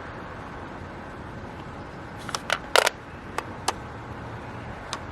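Mahjong tiles clicking against one another as they are slid and rearranged: about seven sharp clicks between two and five seconds in, the loudest near the middle.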